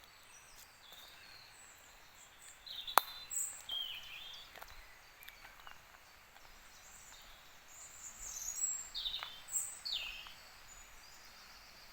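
Woodland birdsong: several birds giving short high chirps and calls, with a few downward-sliding calls near the end, over a faint steady hiss. A single sharp click about three seconds in.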